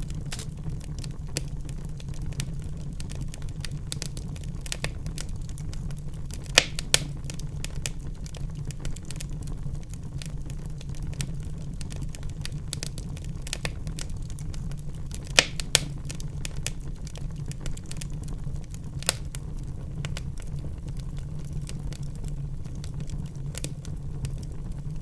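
Wood fire burning in a fireplace, crackling steadily over a low rumble, with a few louder sharp pops: two about six and a half seconds in, two around fifteen seconds, and one near nineteen seconds.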